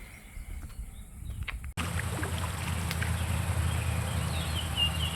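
Outdoor ambience: faint, with a few soft clicks, then a sudden change under two seconds in to a steady low rumble. Short high chirps repeat toward the end.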